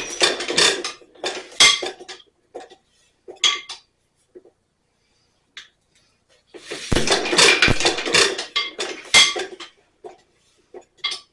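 Irregular clatter and clinking of metal parts being handled while working on a hit-and-miss engine. It comes in two bouts, one at the start and a longer one past the middle, with a couple of low thumps in it and scattered single clicks between the bouts.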